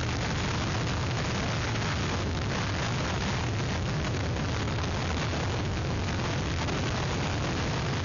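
Hurricane wind blowing hard over an outdoor webcam microphone: a steady, dense rush with a heavy low rumble from the wind buffeting the mic.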